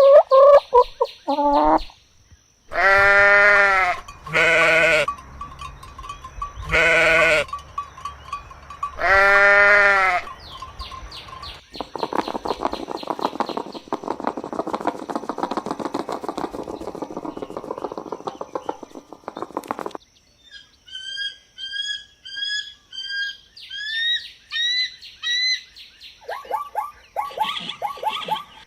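Bleating, four long wavering calls a couple of seconds apart. After them comes several seconds of dense rapid rasping, then a run of short high rising chirps.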